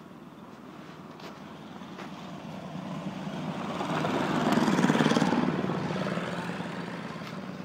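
Snowblower engine running as it passes, growing louder to a peak about five seconds in and then fading away.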